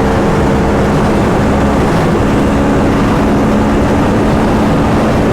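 Motorcycle engine running at a steady speed under heavy wind rush on the microphone while riding.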